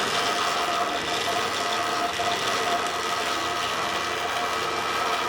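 The 2 kW electric motor of an electric pit bike runs steadily with an even whine, turning the 428 chain drive and rear wheel.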